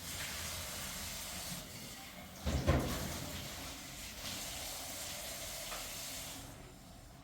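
A steady hiss with a single low knock about two and a half seconds in; the hiss dies away near the end.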